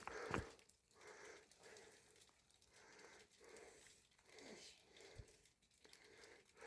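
Near silence, with faint soft rustles now and then.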